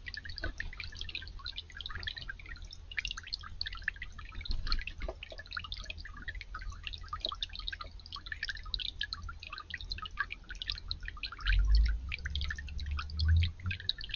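Water dripping and trickling in a yard fountain or bird bath, a steady patter of many quick drips. A low rumble, like wind on the microphone, swells briefly near the end.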